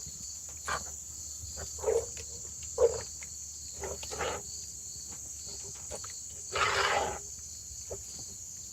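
Crickets chirping in a steady high chorus. Over it come several short scrapes and knocks of a spoon stirring a thick mix of chicken, sour cream and sauce, with a longer scrape about three-quarters of the way through.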